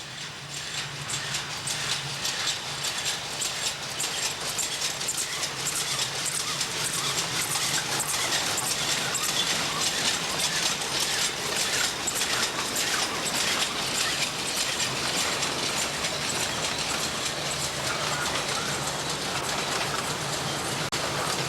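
A steam train running, with a dense clatter of wheels and wagons on the track over a steady low hum. The sound builds up over the first couple of seconds, then holds steady.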